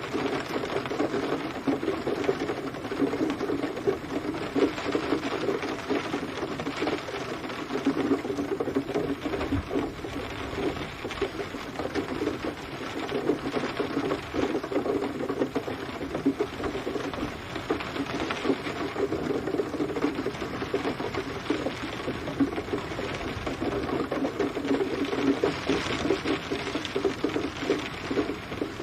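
Steady rain pattering densely on a surface, with close drops tapping rapidly, swelling and easing a little.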